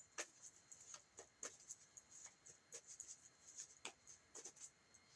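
Near silence broken by scattered faint soft clicks and rustles of tarot cards being handled.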